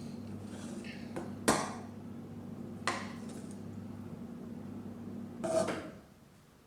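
Kitchen utensils knocking against cookware and dishes: a sharp clink about a second and a half in, a lighter one about three seconds in, and a short clatter near the end. A steady low hum runs underneath and stops near the end.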